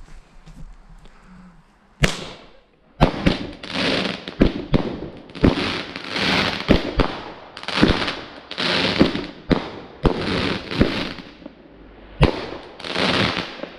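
An 8-shot gunpowder barrage barrel firing: starting about two seconds in, a quick run of sharp cracks, each followed by a hissing, crackling burst as the shells go off, repeating for about ten seconds.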